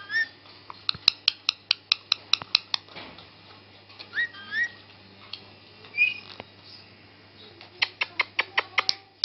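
A pet parrot making a few short whistled chirps that glide up in pitch, between two quick runs of sharp clicks at about five a second.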